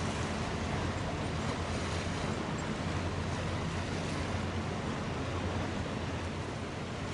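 Steady low engine drone under a constant rushing hiss of wind and water, unchanging throughout.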